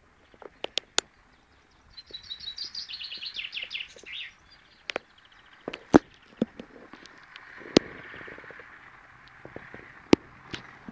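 A songbird sings one fast trill of short notes that drops in pitch and ends after about two seconds. Sharp clicks, the loudest sounds, come at scattered moments, and a faint steady hiss runs through the second half.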